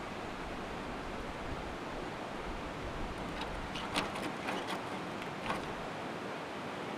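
Steady hiss of rain. A handful of light clicks and knocks come in the middle, the sharpest about four seconds in.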